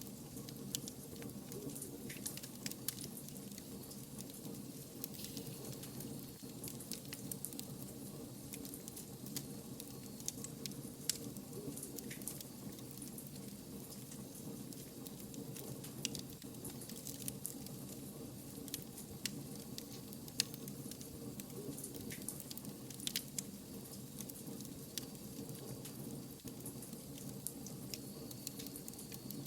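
Wood fire crackling, with sharp pops at irregular intervals over a steady low background.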